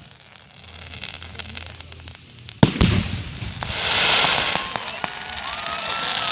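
Fireworks: two sharp bangs in quick succession about two and a half seconds in, followed by a swelling crackling hiss.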